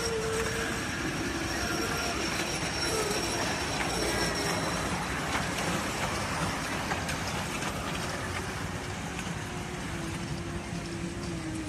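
Small fairground ride-on train running along its track, with a steady rattle and a faint, wavering squeal from the wheels.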